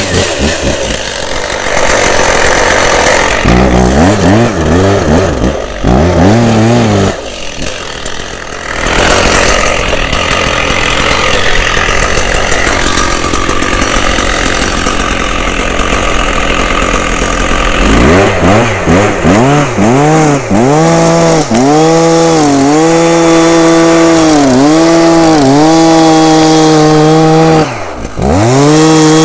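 Two-stroke chainsaw running hard and cutting into wood. Its engine pitch sags under the load and picks back up, over and over, with a deeper dip near the end.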